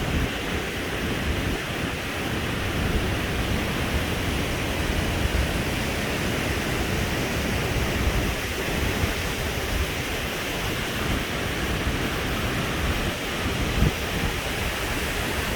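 Alpine mountain stream rushing over rocks: a steady roar of water, with low rumbling underneath and a brief knock about fourteen seconds in.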